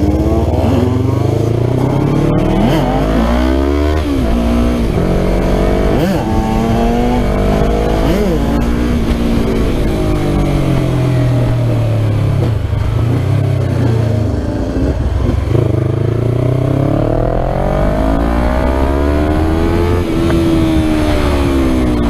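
Yamaha R3's 321 cc parallel-twin engine with a full Akrapovic exhaust, revved hard. Its pitch climbs through the revs and drops back again several times as the bike accelerates and eases off.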